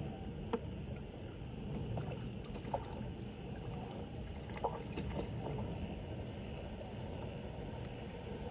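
Floodwater sloshing and splashing in a steady low churn, with a few sharp knocks over it.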